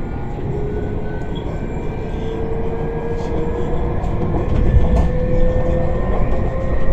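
Eurobahn electric train accelerating hard. Its traction motors give a steady whine that slowly rises in pitch over a loud running rumble, growing louder as the speed builds.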